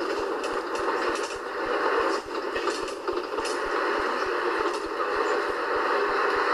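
Scania 143H 450 truck's V8 diesel running steadily, a continuous engine and road noise with only a brief dip in level about a third of the way through.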